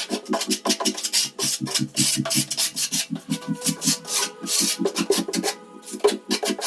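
Tiling trowel scraping and spreading tile adhesive in repeated strokes, over music with a steady beat.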